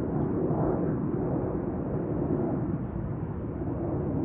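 Steady, deep jet rumble from a Delta Boeing 767-332ER airliner flying overhead.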